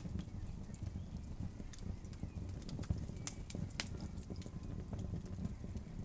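Burning wood logs crackling, with scattered sharp pops (the loudest pair a little past halfway) over a steady low rumble.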